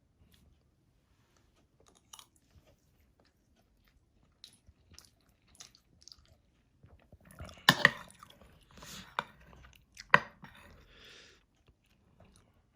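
Close-up eating and handling sounds: soft chewing with scattered small clicks and rustles, and two sharp clacks a couple of seconds apart past the middle.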